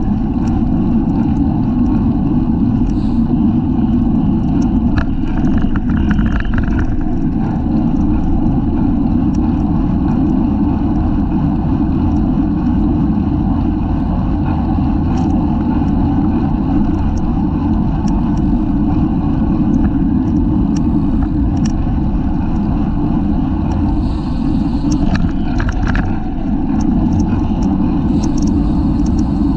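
Wind rushing over the microphone of a bicycle-mounted camera while riding at race speed, a steady low rumble, with scattered small clicks and rattles.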